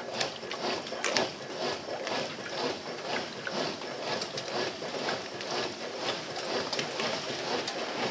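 Brastemp BWL07A top-load washing machine agitating a load in soapy water at low water level, its agitator churning back and forth in a steady repeating rhythm.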